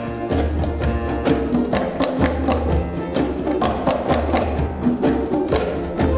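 Live choir music with hand percussion, wood-block-like strikes, keeping a steady beat over low bass notes.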